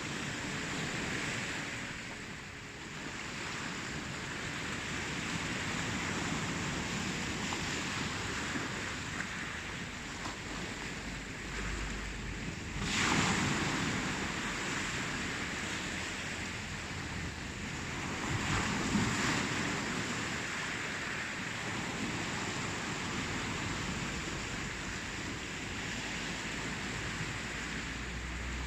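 Ocean surf: waves washing in over one another in a steady rush. A wave breaks louder about thirteen seconds in and again about nineteen seconds in.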